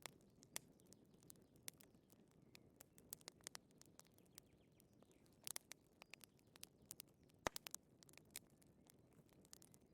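Wood fire crackling softly: scattered, irregular pops and snaps over a faint low hiss.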